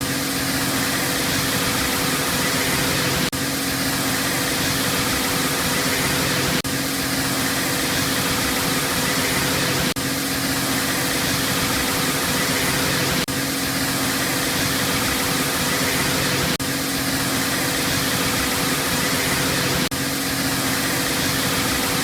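Car wash tunnel equipment running: a loud, steady rushing hiss like spray or blowers over a constant mechanical hum, with brief dips about every three seconds.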